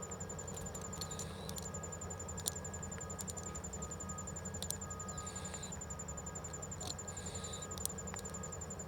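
An insect trilling steadily at a high pitch in fast, even pulses, with a few sharp clicks and short rustling hisses over it.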